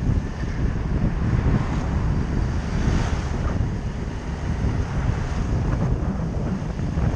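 Wind rushing and buffeting over the microphone of a moving motorcycle, a steady low rumble, with the bike's engine running under it.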